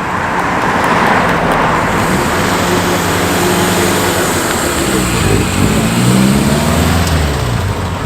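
Car engine accelerating, its note rising, with a sharp drop and fresh climb about five seconds in, as at a gear change.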